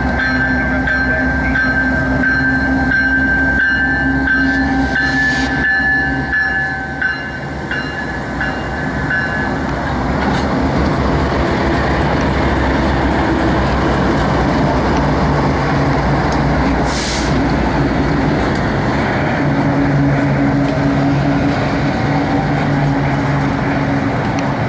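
Intermodal freight train rolling past: a steady rumble and rattle of wheels on the rails. A high steady whine sounds over the first nine seconds or so, and a low steady hum comes in near the end.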